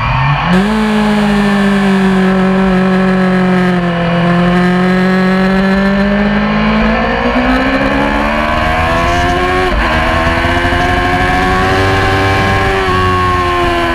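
Yamaha R6 600 cc inline-four race engine running hard. The pitch drops and climbs again about half a second in, rises through the revs with a brief gear-change break about ten seconds in, then eases off near the end.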